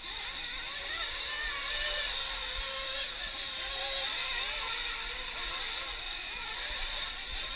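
Several nitro RC truck engines running on the track together: a high buzzing whine whose many pitches rise and fall as the trucks throttle up and ease off.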